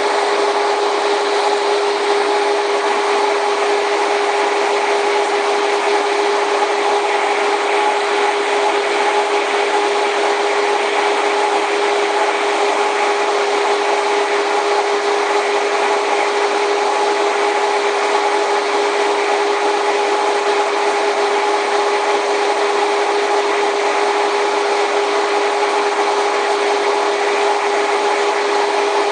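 Cable-hauled Airport Connector people-mover train in motion, heard from the ride: a steady rushing, rubbing running noise with a constant hum under it.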